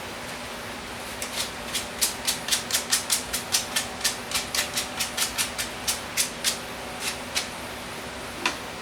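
A run of about twenty sharp clicks, roughly three or four a second, over a steady hiss, with one more click near the end.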